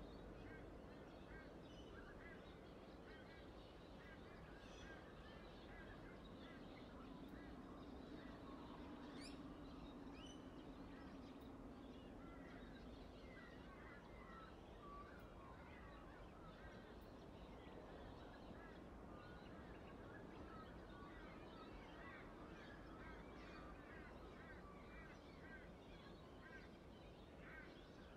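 Near silence with faint bird calls: many short chirps throughout, with a low hum rising briefly around the middle.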